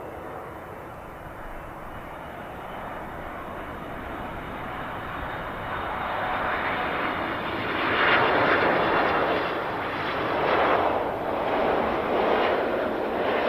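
An airliner's engines passing close by, growing steadily louder and loudest about eight seconds in, then swelling and fading in waves.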